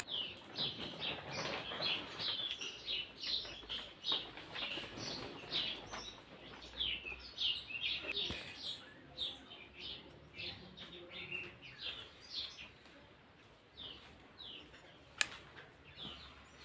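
A small bird chirping over and over in short, quick, falling notes, a few to the second. There is a single sharp click near the end.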